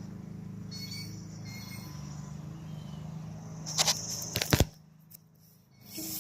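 Outdoor ambience: a steady low hum with a few faint bird chirps, then a couple of sharp knocks with a brief rush of noise about four seconds in, after which the sound drops away almost to silence.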